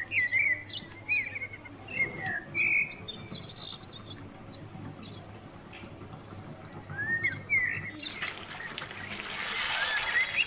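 Small birds chirping, many short rising and falling calls. About eight seconds in the sound changes abruptly and a steady hiss comes in under the last few chirps.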